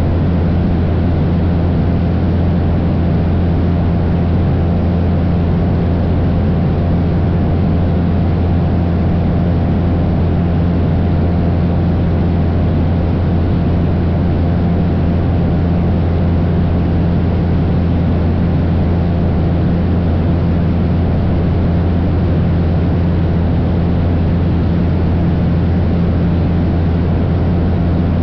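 Cessna 172's piston engine and propeller droning steadily in cruise flight, a loud, even, low hum with no change in pitch.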